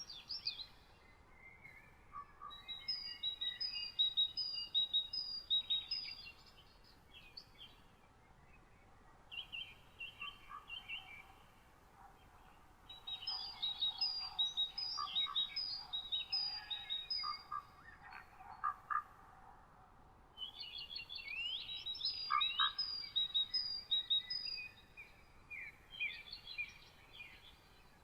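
Songbirds singing in phrases of quickly repeated high notes, four phrases of a few seconds each with short pauses between, over faint steady background noise.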